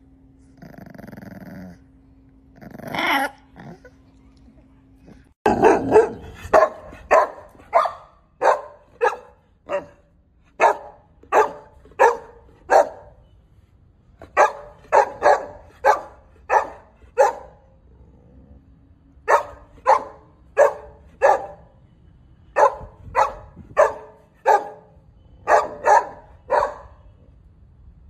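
Puppy barking: one bark about three seconds in, then a long run of short, evenly spaced barks at about two a second, with a few brief pauses.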